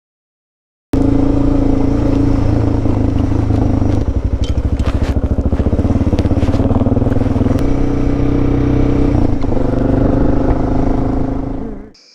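Suzuki DR650's single-cylinder engine running under way, a steady loud motorcycle engine note that beats in slow pulses for a few seconds in the middle, with a few sharp clicks and rattles. It cuts off suddenly near the end.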